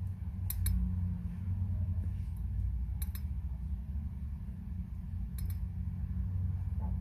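Small sharp clicks in three quick pairs, about two and a half seconds apart, from hand tools working on a watch movement, over a steady low hum.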